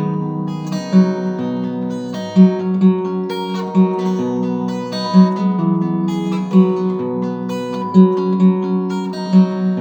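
Acoustic guitar playing an instrumental break between verses of a folk ballad, picked notes in a steady rhythm with a strong accent about every second and a half.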